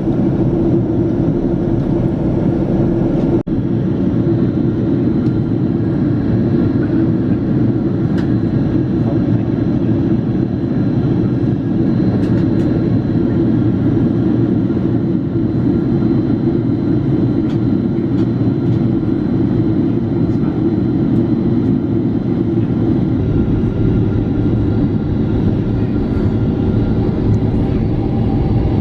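Steady jet engine and airflow noise inside the cabin of a Boeing 767-400ER, with a deep hum that shifts slightly in pitch about 23 seconds in. A brief break comes about three and a half seconds in.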